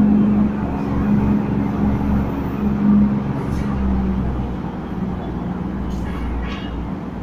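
A passenger train running through the station and moving away, its steady low drone slowly fading.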